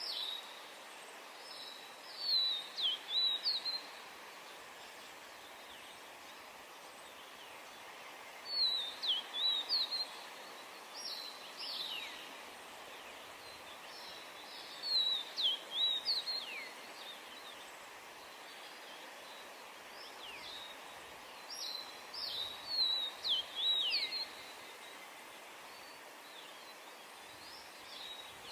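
Yellow-bellied tit calling: clusters of short, high notes, some sliding sharply downward, each cluster a second or two long and repeated every few seconds over steady background noise.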